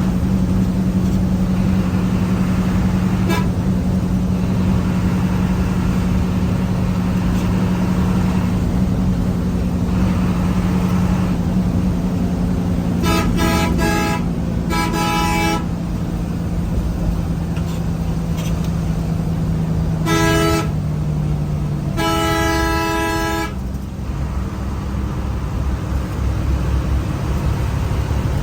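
Steady drone of a road vehicle's engine while driving, with vehicle horns honking: a quick run of short toots about halfway through, another short honk around twenty seconds in, and a longer honk lasting over a second shortly after.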